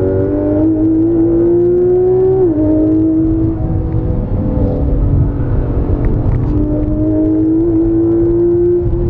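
Porsche 991 GT3 RS's naturally aspirated flat-six, heard from inside the cabin under acceleration, with constant road and tyre rumble underneath. The revs climb, drop sharply with a PDK upshift about two and a half seconds in, hold fairly level, then climb again near the end.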